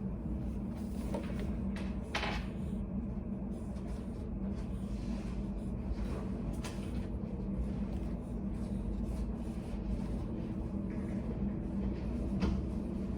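Steady low room hum of a study cafe, with a few faint knocks and rustles spread through it.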